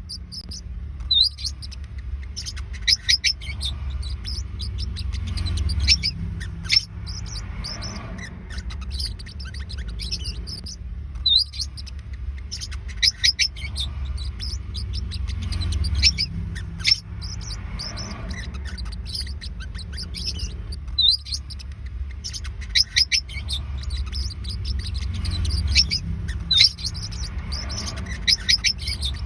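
Forpus parrotlets chirping: clusters of short, high, quick chirps every few seconds, over a steady low rumble.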